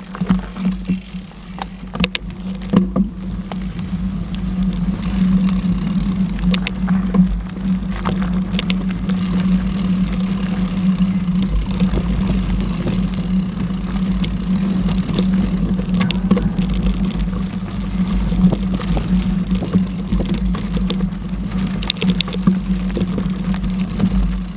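Mountain bike in motion on a trail: a steady hum with a low rumble beneath it and frequent short knocks and rattles from the bike over rough ground, starting suddenly at the beginning.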